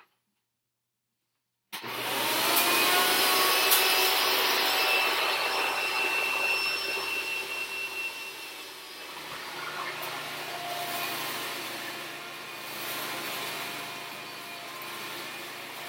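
Hoover TurboPower 3200 vacuum cleaner switched on a little under two seconds in, its motor whine rising as it spins up to a loud, steady run, picking up oatmeal and crushed chips, with a few sharp ticks. About halfway through it drops noticeably quieter and runs on steadily.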